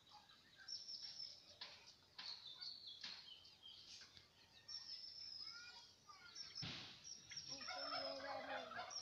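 Farm turkeys calling: thin, high peeping calls throughout, and a lower, fast-warbling call near the end. A short noisy burst comes just before that call.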